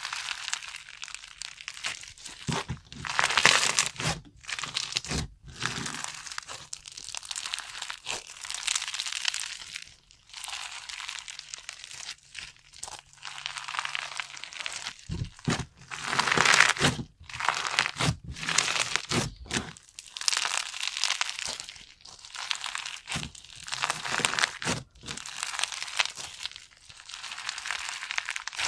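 Hands squeezing and working slime, giving a long run of crackling, crinkling handfuls broken by short pauses, with sharper cracks now and then.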